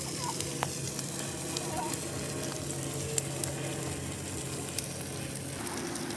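Large bonfire of Christmas trees burning, a steady crackling hiss with sharp pops from the burning fir branches. A low steady hum in the background shifts to a higher pitch near the end.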